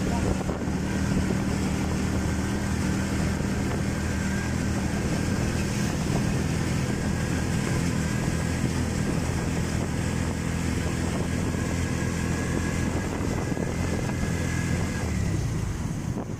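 A vehicle's engine running steadily under a broad hiss of rain and wet-road noise. The engine hum falls away about a second before the end.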